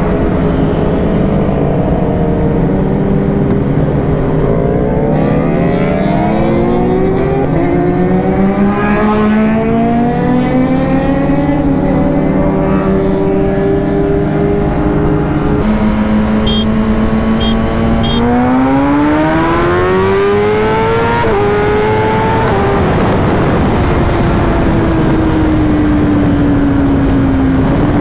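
Kawasaki Ninja ZX-10R's inline-four engine accelerating through the gears: the pitch climbs and drops back at each upshift, then settles into a slowly falling note as the throttle eases off. Steady wind noise runs underneath.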